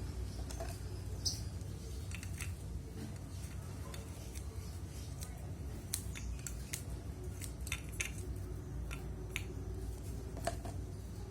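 Light, irregular clicks and snips of hands working cut mealworms and bird pellets in a small plastic cup, over a steady low hum.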